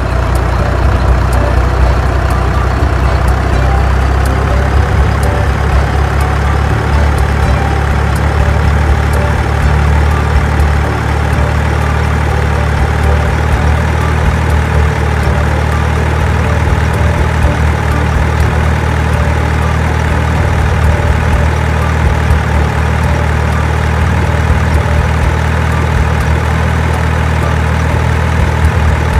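Steady, loud low rumble of an idling engine.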